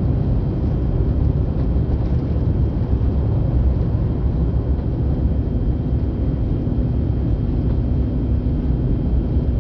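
Steady low roar of a jet airliner's engines and rushing air, heard from inside the passenger cabin during the climb after lift-off, with a faint steady hum coming in about halfway through.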